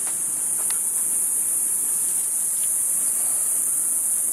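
Insects droning: a steady, high-pitched buzz that does not let up.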